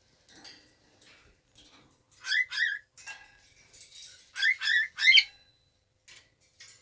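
Cockatiel chirping: two short calls a couple of seconds in, then three more in quick succession near the middle, with faint scratchy rustles between them.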